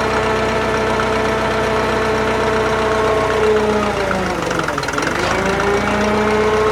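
Drott 85RM2 crane's engine running steadily. About three and a half seconds in its speed sags, then climbs back over the next two seconds, as the engine is loaded by the hydraulics lifting the boom.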